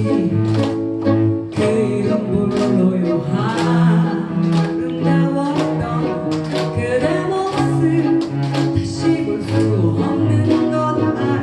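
Live ensemble music: acoustic guitar and sustained low bowed strings playing a pop ballad, with a singing voice.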